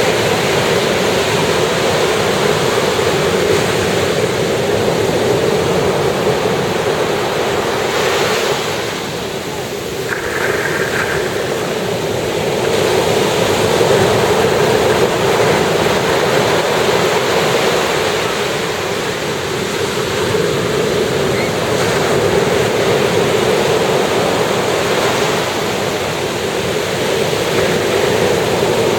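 Ocean surf breaking and washing ashore in a steady, continuous rush, easing briefly about ten seconds in before building again.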